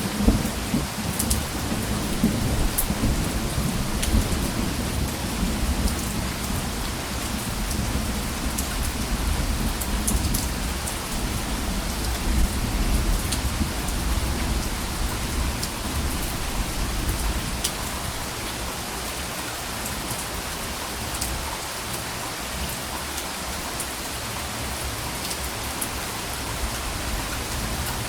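Steady rain falling on a surface, with scattered sharp drop ticks. A low, soft rumble of thunder runs under it and dies away over the first half.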